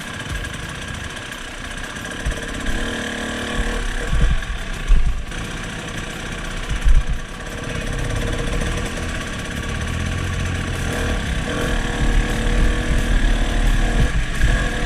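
Off-road motorcycle engine running at low speed on a trail, with a few low thumps about four, five and seven seconds in, and the engine growing louder near the end.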